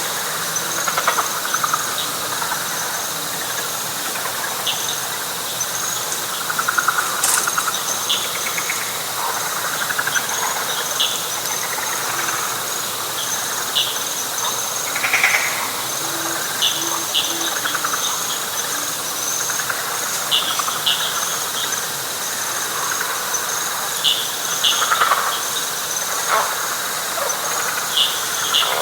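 Night chorus of frogs and insects. A steady high trill runs throughout, with short chirps and pulsed frog-like trills repeating over it every second or two.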